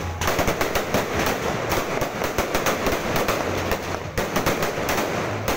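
Aerial fireworks crackling and popping in a rapid, dense barrage, with a brief lull about four seconds in.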